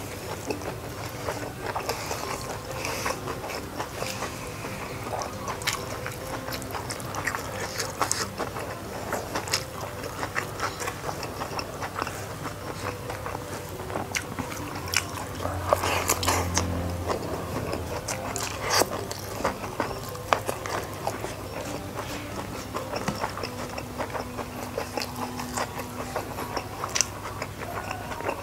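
Close-miked mouth eating sounds: wet chewing and crisp crunching of raw vegetables such as winged bean and lettuce, in many small irregular clicks, with fingers squeezing rice on a banana leaf. A denser, louder stretch comes about halfway through.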